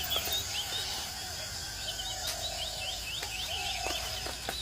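Wild-area ambience: birds calling, with a run of quick high chirps and lower, softer whistled notes, over a steady high insect drone.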